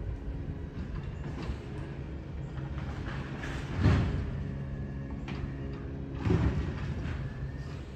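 Recycling truck's engine running steadily, with two loud metallic clunks about four and six and a half seconds in from the collection gear handling a bin.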